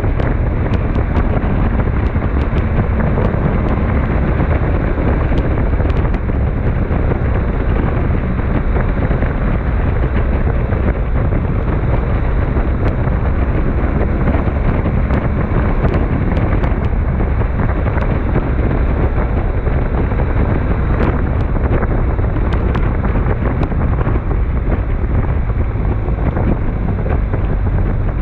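Storm wind buffeting the microphone: a loud, continuous rushing noise, heaviest in the low rumble, with scattered sharp ticks throughout.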